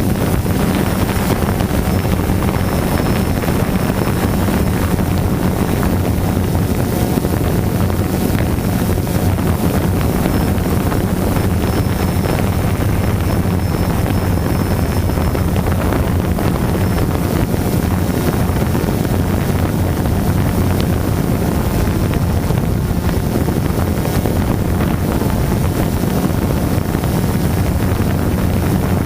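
DJI Phantom quadcopter's motors and propellers buzzing steadily in flight, heard close from the camera mounted on the drone, with a low hum and a rush of wind over the microphone.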